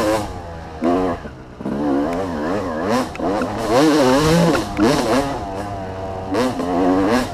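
Off-road motorcycle engine revving hard and backing off again and again, its pitch rising and falling with the throttle, heard close up from the rider's helmet.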